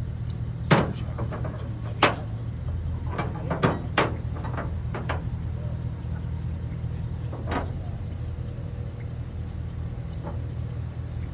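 Pickup truck driving, heard from inside the cab: a steady low engine drone with several sharp knocks and rattles, clustered in the first four seconds and one more about seven and a half seconds in, the loudest just under a second in.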